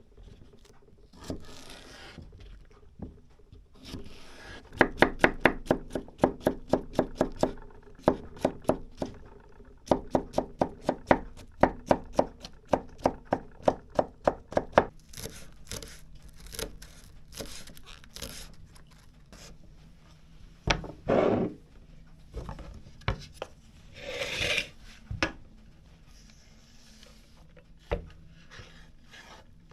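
Knife chopping on a cutting board in quick, even runs of about four strokes a second, broken by short pauses. Later come a few scattered knocks and two brief scraping sounds.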